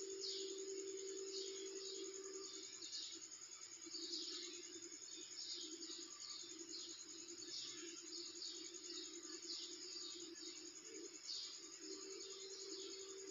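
Small birds chirping again and again in short downward-falling calls, over a steady low hum that turns into a pulsing hum through the middle and steadies again near the end.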